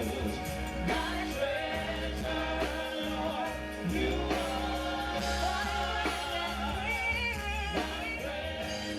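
Live gospel worship music: a praise team singing over a band with bass, drums and guitar.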